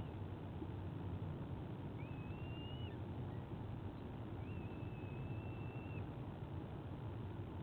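White-bellied sea eagle chick giving thin, high whistled begging calls: two drawn-out notes, each rising at the start and then held level, the second longer at about a second and a half. They sit over a steady low background rumble.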